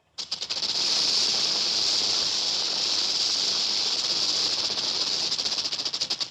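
Rattlesnake rattling its tail: a steady, fast, dry buzz that breaks into separate pulses as it fades near the end.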